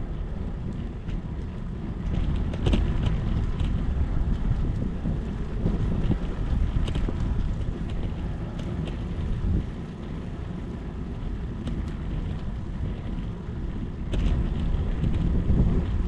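Wind buffeting the microphone during a bicycle descent: a heavy, uneven rumble, with scattered sharp ticks.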